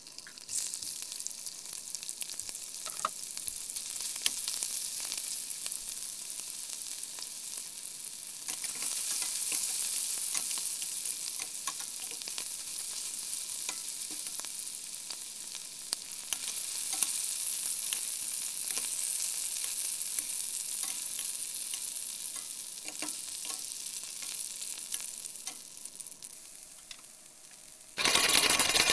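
Italian sausage pieces sizzling in oil in a stainless steel skillet, with scattered clicks of a spoon stirring against the pan. Near the end, sliced garlic sizzles louder in the oil for about a second.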